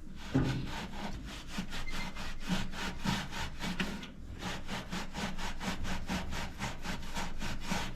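Sponge scrubbing baking-soda paste on a greasy toaster oven surface in quick back-and-forth strokes, about four or five a second, with a short pause about four seconds in.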